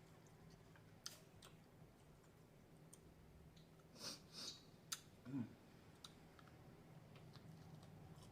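A person eating fried chicken close to the microphone: quiet chewing with a few sharp mouth clicks and smacks, bunched together about four to five and a half seconds in.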